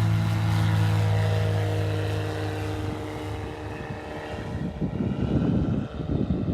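Light propeller airplane's engine and propeller droning steadily, the pitch sinking a little as it fades away after about three seconds. From about five seconds in, wind buffets the microphone.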